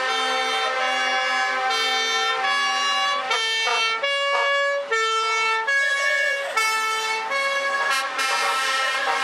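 Truck air horns blaring, several horns at once, their tones overlapping and changing pitch in steps like a horn tune.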